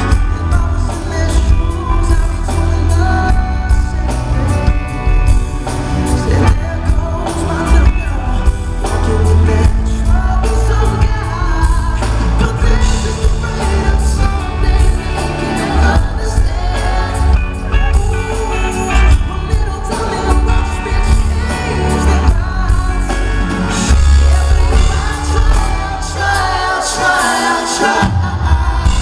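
Live band performance of a pop-soul ballad with a lead singer, over a heavy bass line and drums.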